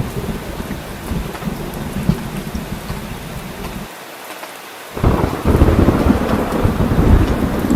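Steady heavy rain with rolling thunder. Midway the deep rumble drops away for about a second, then a loud thunder rumble breaks in suddenly and carries on under the rain.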